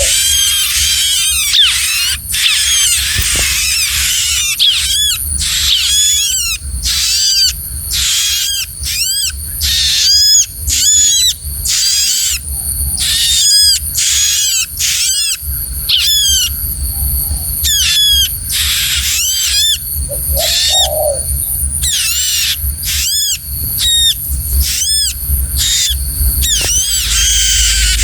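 Small ciblek (prinia) songbird giving rapid, high, thin chirps, several a second, in bursts with short gaps, over a low rumble.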